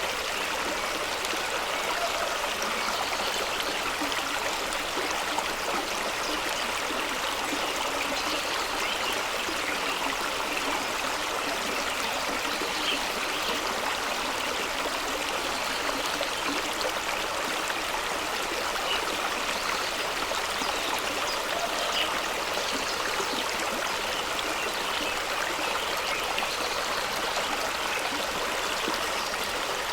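Fast-flowing stream spilling over rocks in a small waterfall: a steady rushing of water with bubbling and splashing.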